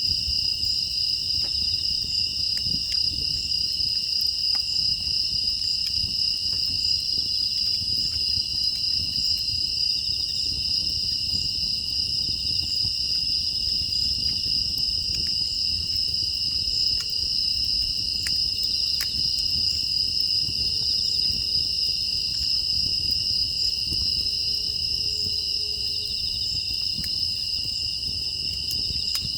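Steady, unbroken chorus of crickets and other grass insects, singing in two high continuous bands. Under it a low rumble with scattered small crackles from a wood fire burning in a firebox.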